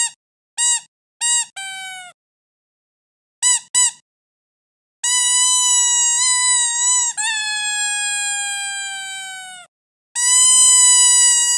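Squeaky dog toy being squeezed: three short squeaks, a slightly longer one falling in pitch, two quick squeaks, then two long drawn-out squeaks lasting several seconds each that slowly sink in pitch.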